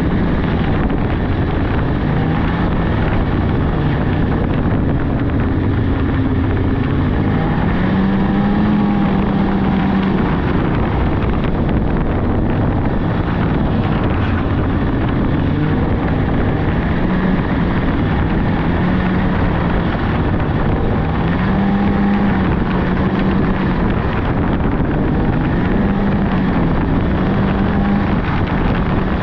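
Polaris 600cc two-stroke snowmobile engine running on the move, its pitch rising and falling as the throttle changes, with wind buffeting the microphone.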